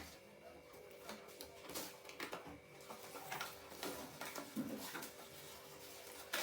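Packaging of a Bluetooth speaker being handled and opened: scattered light clicks and rustles of cardboard and plastic, over a faint steady hum.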